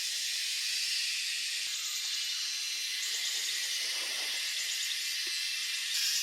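Steady high-pitched chorus of insects buzzing in the woods, with a faint pulsing to it.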